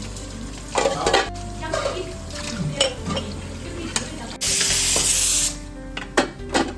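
Kitchen utensils clinking and scraping against cookware, with a loud hiss lasting about a second a little past the middle, over soft background music.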